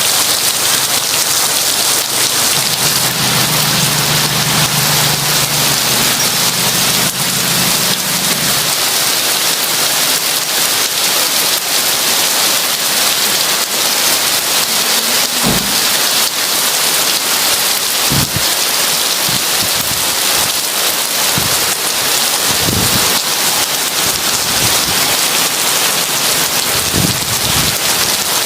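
Heavy rain falling steadily in a dense hiss. A low rumble of thunder starts a few seconds in and fades out about halfway through. A few short low thumps follow later.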